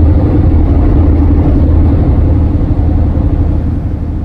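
Motor vehicle running, a steady low rumble of engine and road noise that eases slightly near the end.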